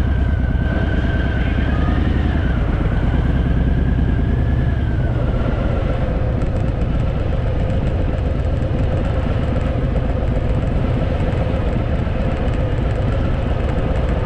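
Harley-Davidson V-twin motorcycle engine running steadily while riding, with a deep rumble and a held note that changes pitch about five seconds in.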